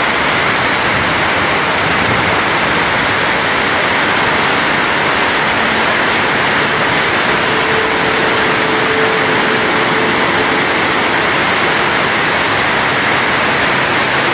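Heavy tropical rain pouring down in a steady, loud hiss. A faint steady tone sounds for a few seconds midway.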